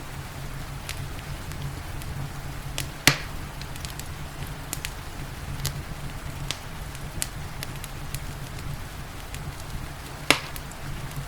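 Wood fire crackling: scattered sharp snaps, with two louder pops about three seconds in and near the end, over a steady low rumble and a soft hiss of rain.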